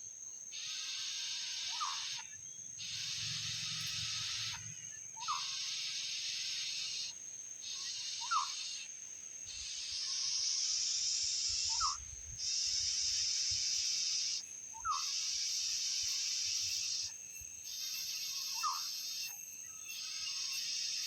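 Insects buzzing loudly in long pulses, a few seconds each with brief breaks. A bird repeats a single short call about every three seconds.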